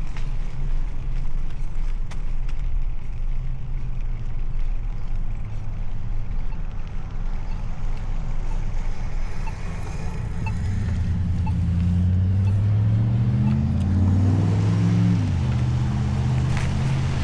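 A motor vehicle passes: its engine hum climbs in pitch from about ten seconds in and drops sharply about fifteen seconds in as it goes by. Under it runs a steady low rumble of wind and road noise.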